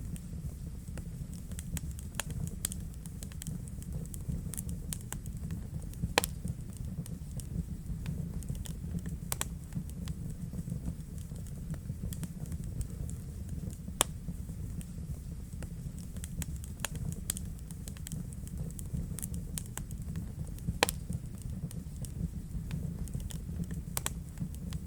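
Wood fire burning in a fireplace: a steady low rumble of the flames under irregular sharp crackles and pops, a few of them louder, about 6, 14 and 21 seconds in.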